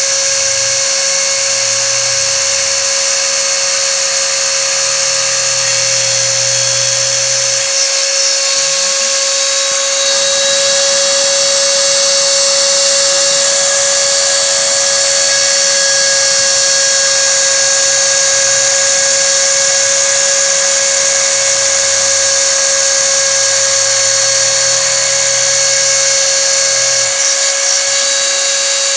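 Homemade CNC router's spindle running with a steady high whine as it cuts into plastic. A lower motor hum from the axes moving comes in twice, rising in pitch.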